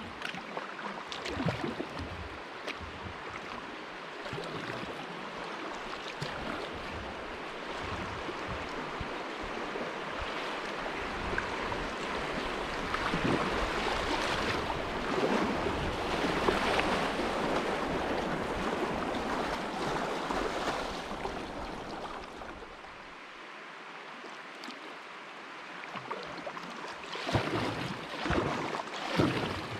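River water splashing and rushing around a kayak, louder through the middle stretch, with a few short paddle splashes near the end.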